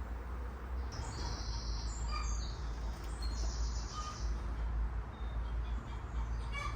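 Wild birds singing outdoors: two high trilling phrases and a few short chirps, over a steady low rumble.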